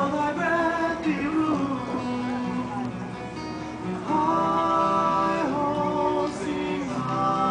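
A song performed with an acoustic guitar being strummed and voices singing long held notes.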